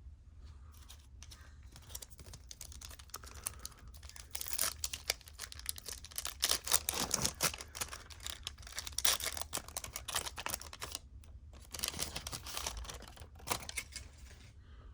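A 1994-95 Upper Deck SP trading-card pack wrapper being torn open and crinkled, with the cards clicking and sliding against each other as they are handled. It comes as a dense run of crackles and clicks that thickens after about four seconds.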